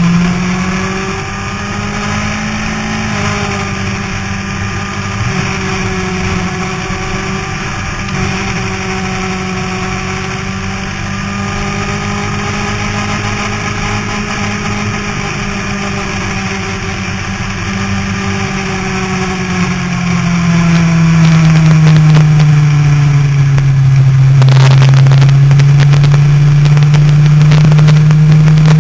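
Motorcycle engine running under steady throttle on a race track, heard from a camera mounted on the bike, with wind rushing over the microphone. About twenty seconds in it grows louder as the throttle is opened, and the wind rush thickens.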